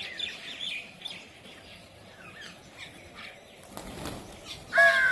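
Birds gathering at scattered food: rapid small chirps for the first few seconds, a brief whoosh like wings about four seconds in, then a loud call that falls in pitch near the end.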